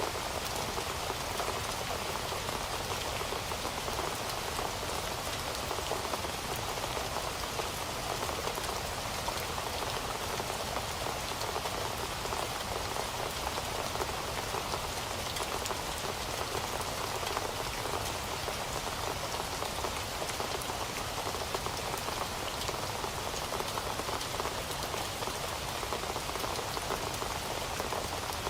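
Heavy rain falling steadily on a surface: a dense, even patter of many drops, with no change in strength.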